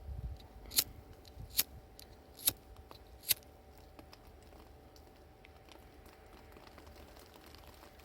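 Four sharp clicks in an even rhythm, a little under a second apart, in the first half; then only a low steady background.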